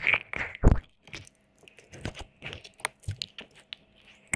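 Wet mouth sounds close to the microphone: licking and tongue clicks and smacks, a dense run of loud wet smacks in the first second, then sparser, softer clicks.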